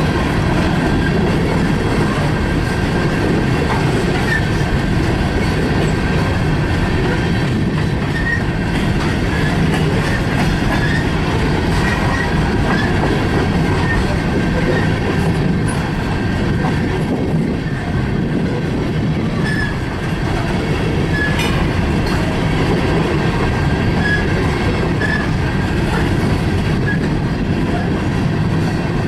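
Freight train cars rolling past in a steady rumble, with wheel clatter and faint short wheel squeals.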